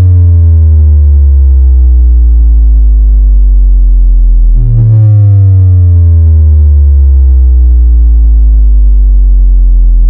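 Synthesized sub-bass kick tone, very loud, with a deep buzzy boom that slowly falls in pitch over about five seconds. It sounds twice: a second boom starts about halfway through and glides down again.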